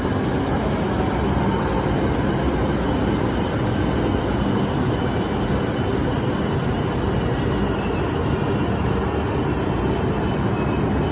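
Shinkansen bullet train rolling past with a steady rumble, and faint high wheel squeal coming in about five seconds in.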